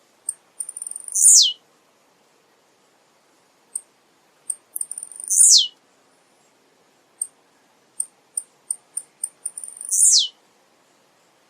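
Male blue-black grassquit (tiziu) singing three songs, about four to five seconds apart. Each is a run of short, very high ticks that quicken into a loud buzzy note sliding down in pitch.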